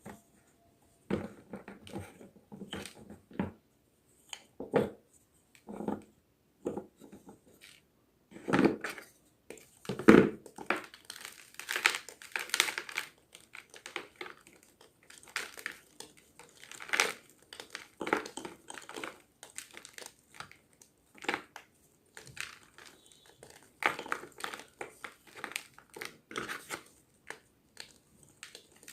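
Fresh block of gym chalk being crunched and crumbled, a long run of irregular dry crunches and crackles, some sharp and loud, others softer.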